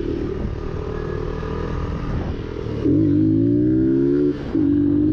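Motorcycle engine revving up and accelerating, louder from about three seconds in with its pitch climbing steadily, then a brief dip at a gear change near the end before it climbs again.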